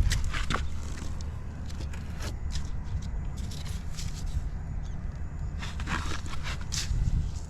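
Honda Motocompo's small 49 cc two-stroke single running at a low, steady idle, with scattered clicks and scrapes from the scooter being handled.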